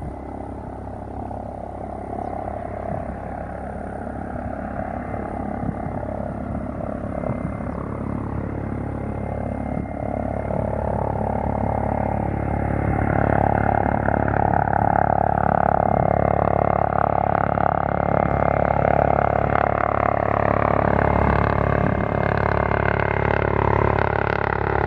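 Airbus ACH145 twin-turbine helicopter approaching to land: rotor and turbine whine growing steadily louder as it comes in.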